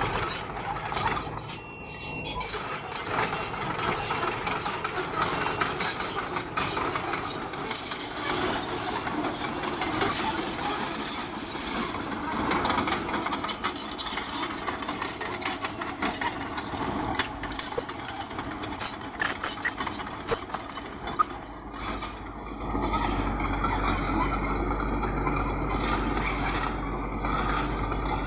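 Bulldozer at work pushing stone: its engine running under a steady stream of clanks, rattles and scraping from the tracks and the stone. Near the end a deeper steady drone comes in.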